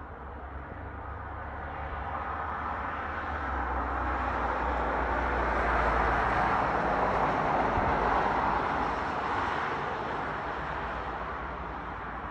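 A vehicle passing by, its noise swelling to a peak midway and fading away again, over a steady low rumble.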